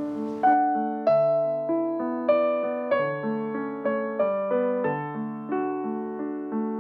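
Solo piano playing a church postlude at an unhurried pace: chords and a melody, each note struck and fading.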